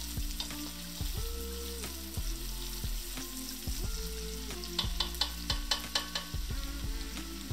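Chopped onion sizzling in olive oil and butter in an enamelled steel pan, stirred with a plastic spatula, with a quick run of spatula strokes against the pan about five seconds in. The onion is being sweated until transparent, not browned.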